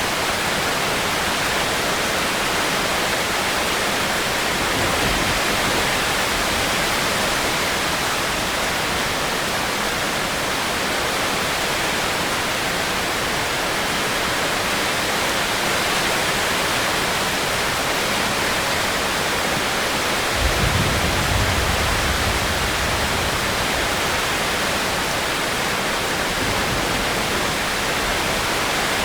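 Steady, heavy rain falling, an even hiss with no break. About twenty seconds in, a low rumble rises suddenly and fades over a few seconds.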